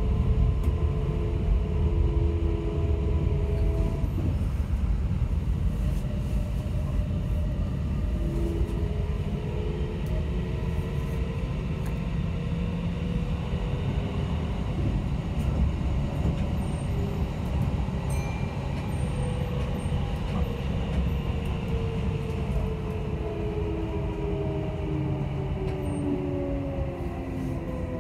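Kintetsu 5800-series electric train heard from inside the carriage, running underground with a steady heavy rumble of wheels on rail. From about two-thirds through, the motor whine falls steadily in pitch as the train slows into a station.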